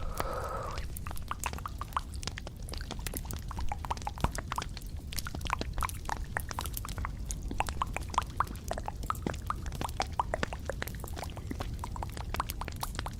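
Close-miked ASMR trigger sounds: a dense run of small, irregular clicks and taps, some with a short wet, drip-like pitch, over a steady low rumble, with a brief noisy rustle about a second in.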